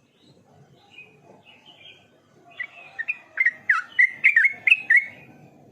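Yellow-vented bulbul (trucukan) singing. Faint short calls come first, then about halfway through a quick, loud run of chirping notes lasts nearly three seconds.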